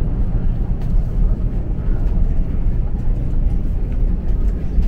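Steady low rumble of a moving passenger train, heard inside the carriage.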